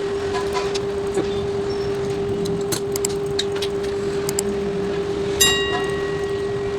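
A steady mid-pitched hum runs throughout, under scattered small clicks and rattles of small parts and tools being handled. About five and a half seconds in comes a single short metallic ring.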